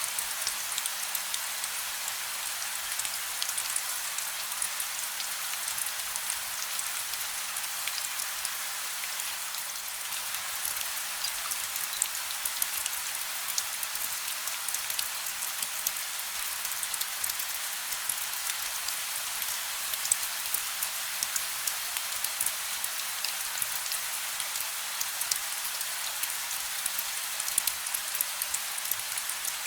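Gentle, steady rain: an even hiss of rainfall with many small, sharp drop patters scattered through it.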